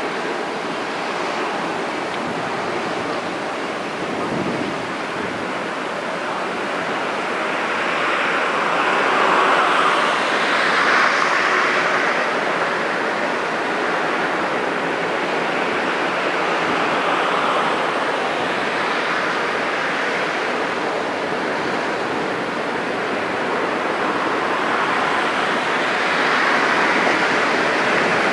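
Steady rushing noise with no clear engine note, swelling about eight to twelve seconds in and again near the end.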